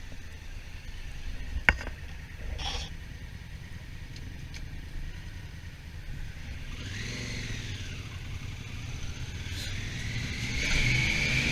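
Honda Africa Twin's parallel-twin engine running under way, with a steady rumble and wind, and a single sharp click about a second and a half in. The revs rise and fall about seven seconds in, then climb louder near the end as the bike accelerates.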